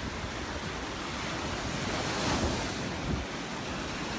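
Gulf surf washing onto the beach, with wind on the microphone; the surf swells a little louder about halfway through.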